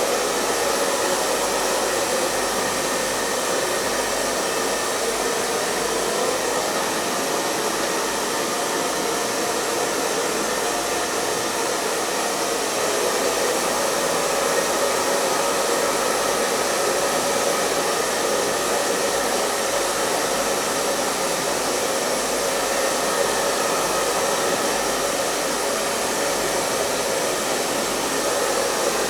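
Hair dryer running steadily: an even, unbroken rush of blown air over a faint motor hum, with no change in speed.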